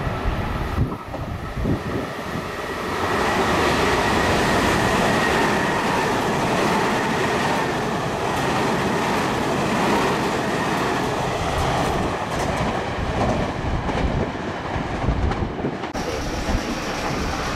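Meitetsu 2000 series μSKY airport express train running through a station at speed without stopping. The sound builds about three seconds in to a loud, steady rush of wheels on rail that lasts about thirteen seconds. Near the end it breaks off abruptly and a different background with a steady high tone takes over.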